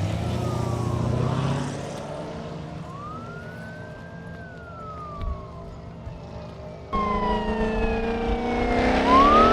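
Racing vehicles accelerating hard and passing, their engine and drivetrain pitch climbing and then sliding down. A loud pass begins suddenly about seven seconds in, and another sweeps upward near the end.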